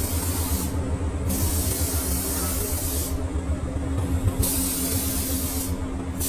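Compressed-air spray gun hissing in repeated bursts of one to two seconds, over a steady low machine hum.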